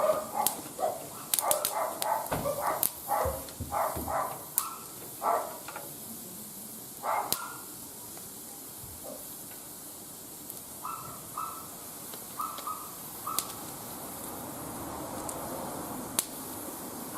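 A wood fire crackling in a barbecue grill, with sharp pops through a steady hiss. Over it a dog yaps in a quick run of short barks for the first six seconds or so, then gives a few more short yaps later on.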